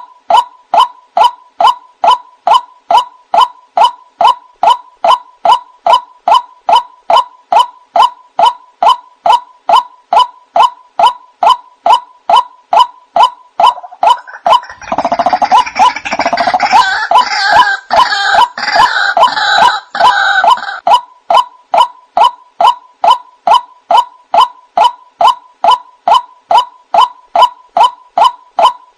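White-breasted waterhen (ruak-ruak) calling, a monotonous repeated call about twice a second, used as a bird-luring call. About halfway through, a denser, harsher bout of calling joins in for several seconds, then the steady repeated call carries on.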